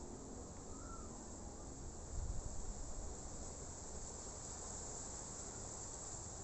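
A steady, faint, high-pitched insect chorus like chirring crickets, with a brief low knock or rumble about two seconds in.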